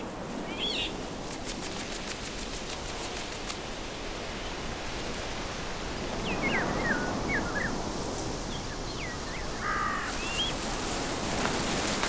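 Outdoor wetland ambience: a steady hiss with a few short, high bird chirps, one near the start and several more in the second half.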